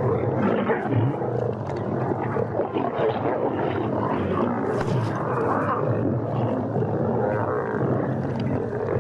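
A pride of lions snarling and growling steadily as they jostle and fight over a kill while feeding.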